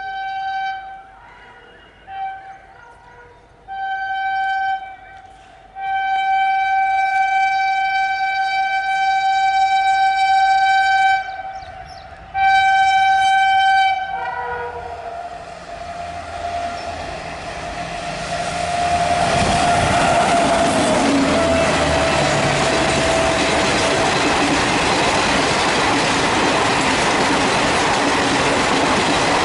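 WAP7 electric locomotive sounding its horn in a string of blasts, short ones first, then one of about five seconds and another of about two. Then the locomotive and its ICF coaches pass at speed: a loud steady rush of wheels on rail, with the locomotive's whine dropping in pitch as it goes by.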